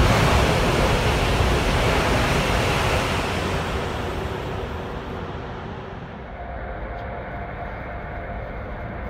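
A Chinese high-speed train running in to a station platform: a steady rushing noise, loudest over the first few seconds, then fading. About five seconds in it gives way to quieter open-air ambience with a faint hum.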